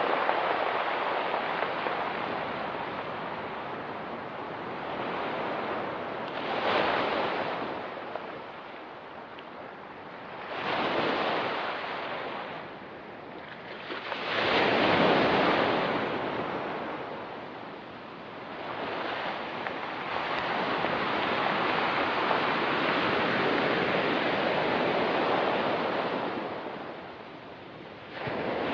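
Ocean waves breaking and washing on a rocky, pebbly shore, surging and ebbing every few seconds, with the biggest wave about fifteen seconds in and a long wash near the end.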